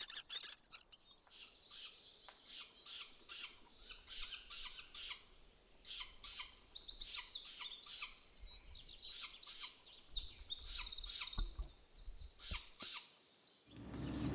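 Small birds chirping: a string of short high chirps, about two a second, with a fast trill about ten seconds in.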